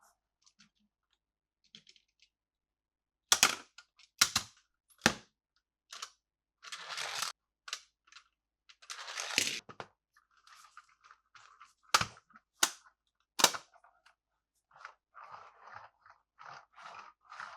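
Plastic toy parts and packaging being handled: about six sharp clicks and snaps, with short stretches of plastic rustling between them, after a quiet first few seconds.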